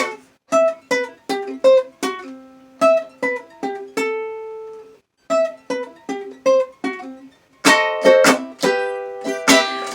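Plucked string instrument playing alone in a bathroom's small-room echo, picking single notes of a melody, pausing briefly about five seconds in, then strumming chords near the end.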